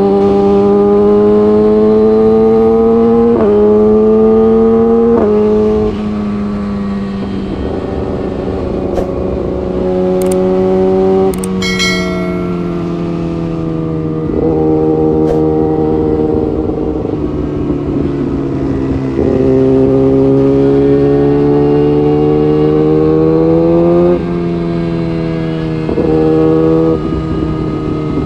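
Honda CBR600RR inline-four engine pulling through the gears. The pitch climbs and then drops at each quick upshift, around three and five seconds in. About six seconds in the throttle is eased off, and the pitch falls slowly for some ten seconds. From around nineteen seconds it accelerates again, with further upshifts near the end.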